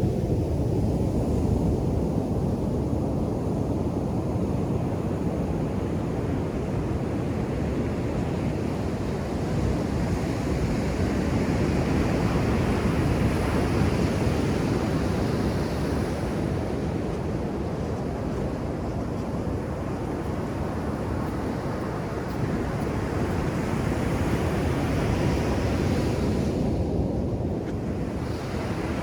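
Ocean surf breaking on a beach, a continuous low rush that swells and eases over several seconds, with some wind noise.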